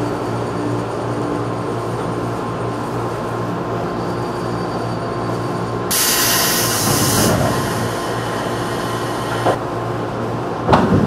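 Interior sound of a 211-series electric train carriage: a steady low hum with several held tones. About six seconds in, a loud hiss of air cuts in and lasts some three seconds. A couple of sharp knocks come near the end.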